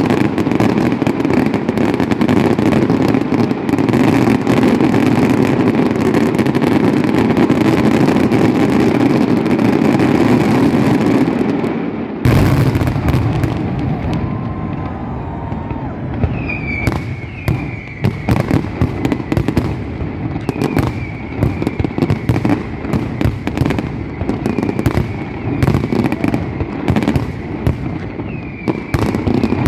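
Fireworks: a dense, continuous barrage of crackling explosions for about twelve seconds, then after an abrupt change, separate sharp bangs, many with short falling whistles, about once a second.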